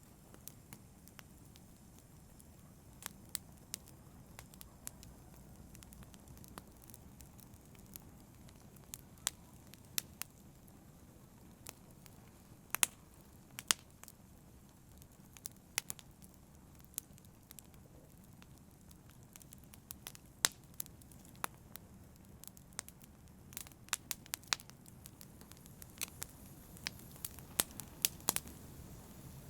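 Wood fire burning: a low steady rumble of flames with irregular sharp crackles and pops from the burning logs, more frequent near the end.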